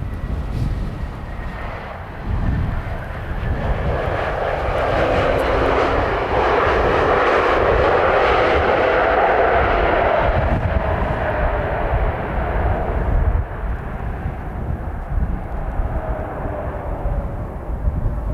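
Airbus A320 jet engines rising to a loud roar and fading again as the airliner passes, with a whine that slides slowly down in pitch. Gusty wind rumbles on the microphone underneath.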